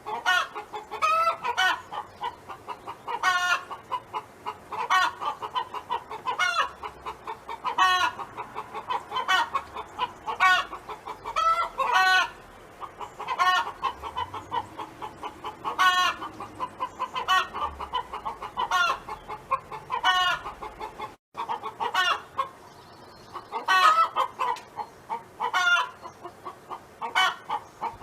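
Domestic hen clucking over and over, a quick run of short clucks with a louder call every second or so. The sound drops out for an instant about two-thirds of the way through.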